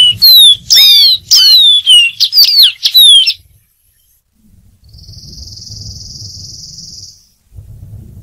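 Dark-throated seedeater singing: a fast run of clear, sliding whistled notes, most of them falling in pitch, lasting about three seconds before the bird stops.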